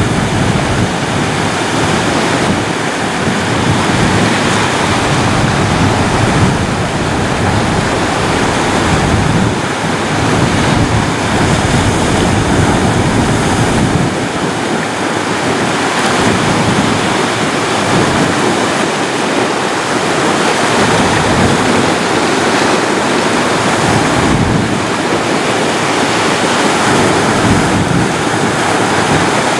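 Ocean surf: waves breaking and washing up a beach in a steady, dense rush with slow swells in loudness.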